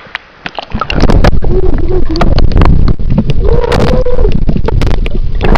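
Water splashing and rumbling close against the microphone, with many sharp knocks and clicks, starting about a second in. A few short pitched cries are heard over it.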